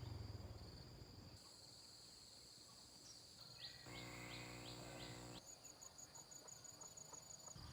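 Faint outdoor ambience: insects keep up a steady high buzz, turning into rapid high chirping for the last couple of seconds, and a quick run of five short rising calls comes about halfway through.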